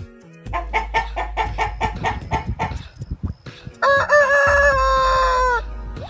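Chickens clucking in a quick run of about four clucks a second, then a rooster crows once, a long call of nearly two seconds starting about four seconds in.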